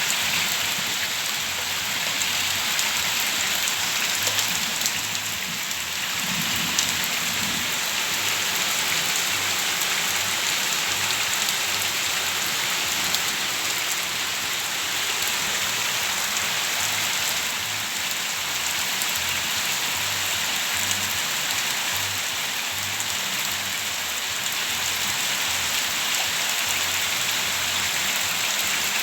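Rain falling steadily, an even hiss of drops on surfaces.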